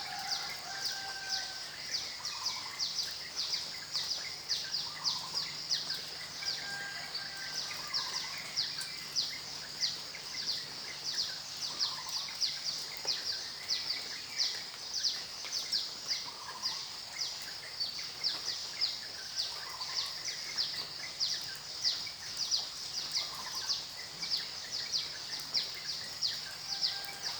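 Outdoor nature ambience: a fast, even run of high chirps, about three a second, with softer short calls every couple of seconds, over a faint steady hiss.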